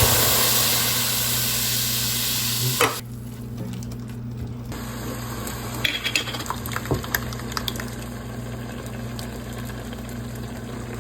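Canned chicken frying in a hot pan: a loud sizzle that slowly fades, stops abruptly about three seconds in, and gives way to a quieter steady fry with scattered pops of spitting grease.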